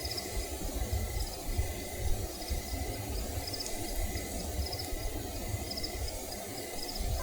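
Crickets chirping, short high pulsed chirps repeating about once a second, over a low steady rumble.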